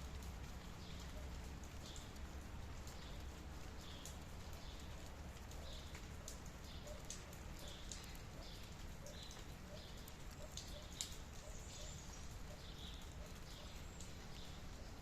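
Light rain, with drops tapping and dripping irregularly over a faint, steady low rumble.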